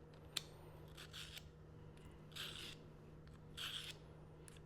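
Stockman pocket knife blade being sharpened: three faint scraping strokes along a sharpening surface, about a second and a quarter apart, with a light click near the start.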